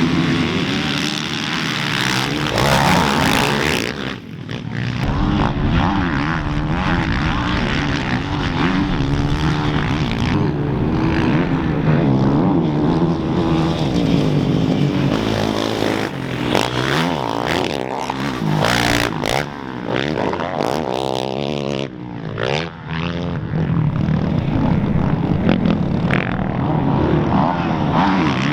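Dirt bike engines racing, their pitch rising and falling continuously as the throttle is worked and the gears change.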